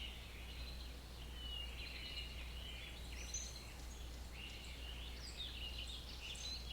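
Faint birds chirping and singing, many short calls and brief gliding notes, over a steady low hum.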